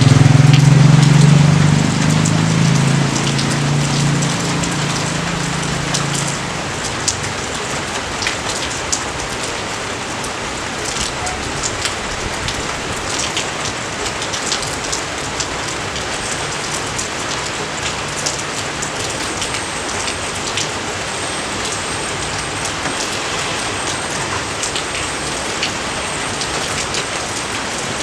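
Steady rain falling on rice paddies, an even hiss with scattered sharp drop taps. Over the first several seconds a low engine hum from a passing motor vehicle fades away under the rain.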